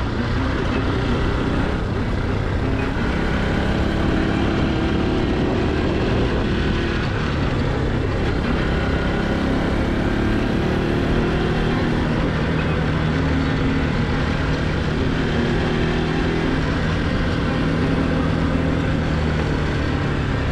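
Motorcycle engine running under way on a rough road, its pitch shifting as the throttle changes. The exhaust silencer has lost its baffle, which the rider says broke on an earlier ride.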